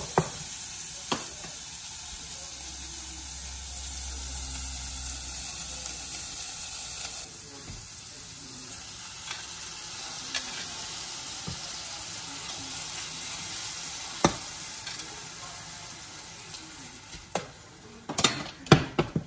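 Sliced wieners sizzling and frying in an electric hot pot, being stirred. The sizzle drops abruptly to a softer level about seven seconds in. Scattered sharp clicks and taps run through it, with several close together near the end.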